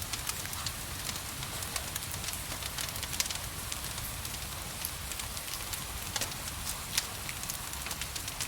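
Fireplace wood fire crackling, with frequent irregular sharp pops over a steady hiss of gentle rain.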